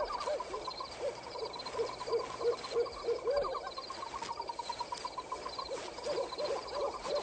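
Night-time animal sound effects: a run of short repeated calls, a few a second, over a steady trilling chorus of insects or frogs.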